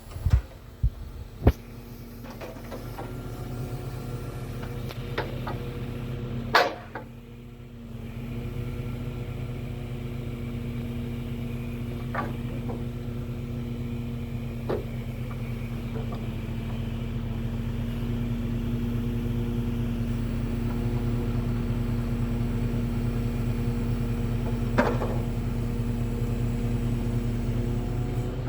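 Scania 480 truck engine running steadily, with a brief dip in its level about seven seconds in, and several sharp clicks and knocks scattered over it.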